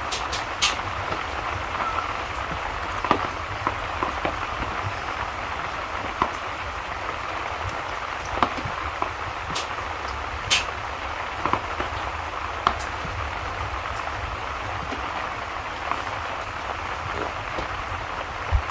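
Steady rain falling, with the irregular crackles and sharp pops of a fireplace's burning wood.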